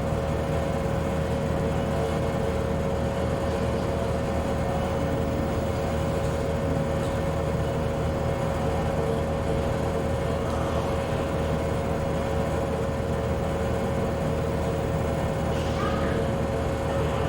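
Bowling alley room tone: a steady low rumble with a constant hum and no distinct pin strikes.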